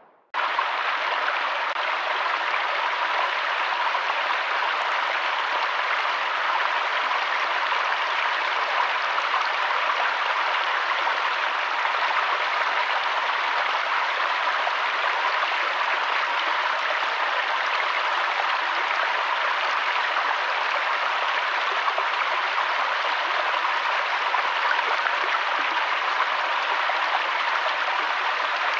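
Steady rushing water noise, starting abruptly about half a second in and holding even throughout.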